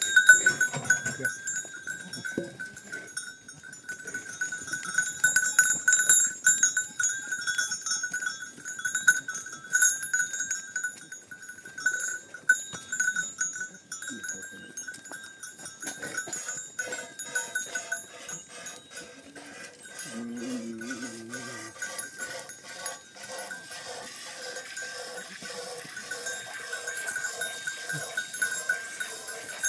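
Livestock bells on a moving flock clanking and ringing continuously, thickening into dense jangling in the second half. A short low animal call comes about twenty seconds in.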